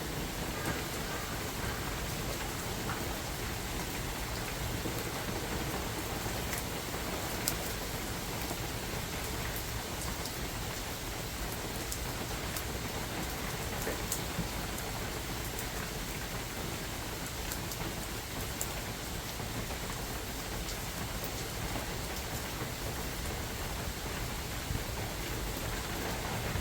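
Steady spring rain falling in a forest, an even hiss with scattered sharper drop ticks.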